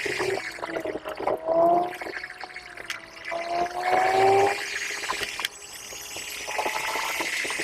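A car's engine and drivetrain whine, heard from inside the car, the pitch climbing as it accelerates, then dropping and climbing again a few times as gears change.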